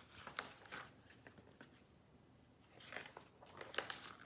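Faint rustling and a few soft taps of a picture book being handled and its page turned.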